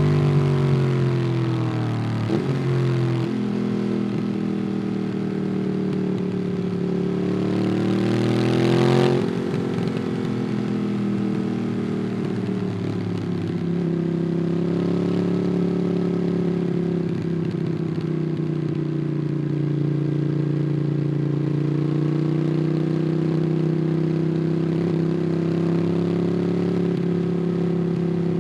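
Ducati Monster 821's 90° L-twin engine through a QD Twin Gunshot exhaust, heard onboard while riding. The revs fall, then climb under acceleration until they drop off abruptly about nine seconds in. After that the engine runs at fairly steady revs, rising and falling gently.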